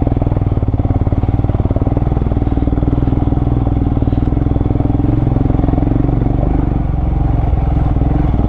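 Motorcycle engine running steadily under load, pulling up a steep, rough off-road trail.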